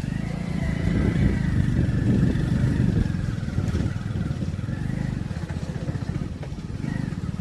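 An engine running steadily with a low, fast pulse.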